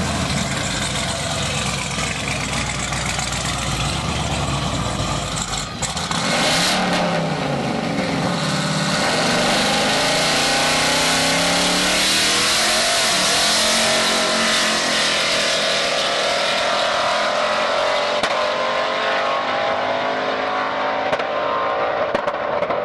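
Twin-turbo 427 Dart-block LS V8 in a Cadillac Escalade making a drag-strip run. It runs steadily for about six seconds, then the SUV launches and the engine note climbs, drops at the gear changes and climbs again under full throttle.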